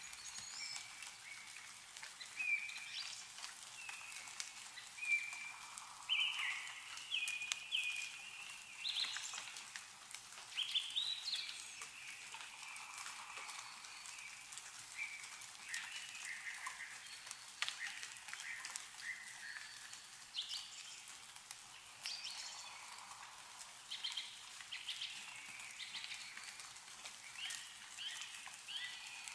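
Small birds calling with many short, repeated chirps, over scattered drips of meltwater falling from snow-laden trees.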